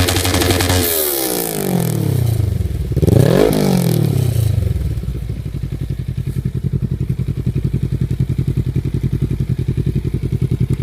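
Kawasaki ER-6n parallel-twin motorcycle engine through a custom undertail dual exhaust, falling back from a rev and then blipped once more, rising and dropping about three seconds in, before it settles into a steady, even idle.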